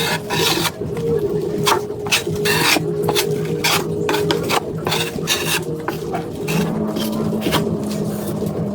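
Repeated short scraping strokes on drywall, the sound of working the patch with a tool, over steady low tones that step up in pitch near the end.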